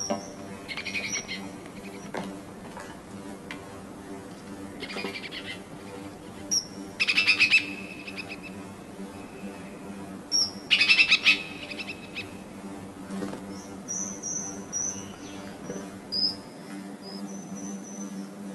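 Birds calling: short high chirps throughout, with two loud, rapid chattering calls, one about seven seconds in and another about eleven seconds in.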